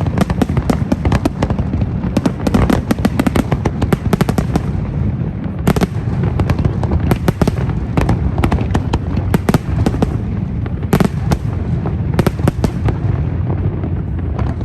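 Fireworks display: rapid, dense volleys of sharp bangs and crackles over a continuous low rumble of bursts.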